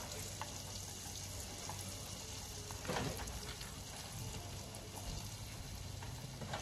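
Breaded cutlets deep-frying in a pot of hot oil: a steady sizzling hiss as they are turned with chopsticks. A brief clatter about three seconds in.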